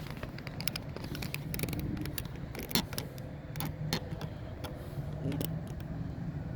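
Scattered light clicks and knocks of hands handling plastic interior trim and a storage tray, over a steady low hum.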